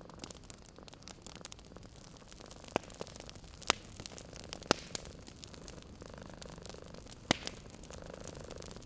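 Wood fire crackling in a fireplace: a steady hiss with scattered sharp pops, four loud ones spread through the middle of the stretch. A cat purring steadily underneath.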